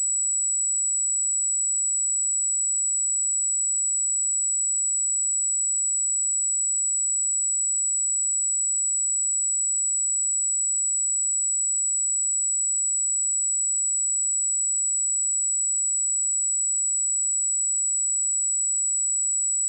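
A steady, pure 7847 Hz sine-wave test tone, one high-pitched note held unchanged.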